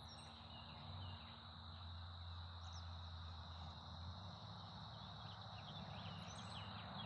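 Quiet outdoor ambience: a steady high insect drone, a few faint bird chirps and a low steady hum.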